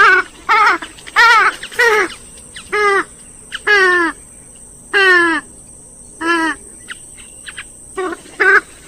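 Grey-headed swamphen calling: a series of about ten short, loud, wavering calls, each falling in pitch, roughly one a second, with a pause of over a second before the last few.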